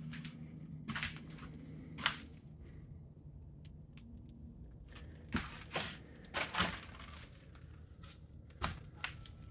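Scattered crackles and crunches in a small room, with a few louder crunches about a second in, at two seconds, and a cluster between five and seven seconds.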